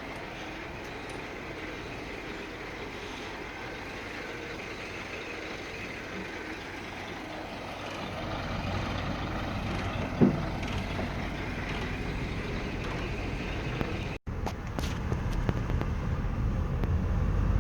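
A low-loader truck running on the road. Its engine rumble grows louder and deeper about eight seconds in, with a short sharp sound about ten seconds in and a brief break in the sound near fourteen seconds.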